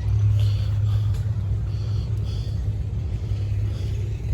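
Diesel engine of a 1952 Farmall H tractor running hard under load while pulling a sled, a steady low-pitched drone.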